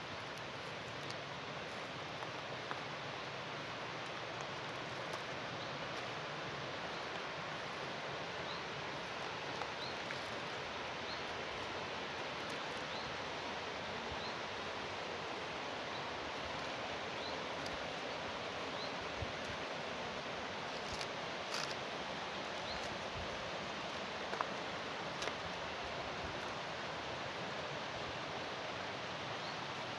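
Steady rush of water flowing along a channel. Over it, a short high chirp repeats about once a second, with a few faint clicks.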